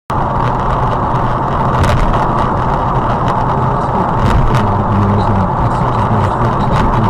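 A car's engine and road noise, steady, cutting in abruptly at the start, with a few light ticks on top.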